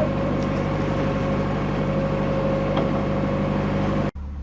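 Narrowboat's diesel engine running steadily under way, with a steady high tone over its low throb. It breaks off abruptly near the end, and a quieter engine hum follows.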